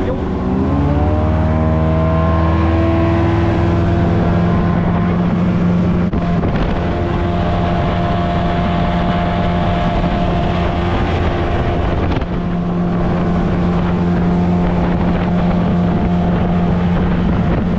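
A fishing boat's motor speeding up, its pitch rising over the first second or so, then running steadily under way, with wind noise on the microphone.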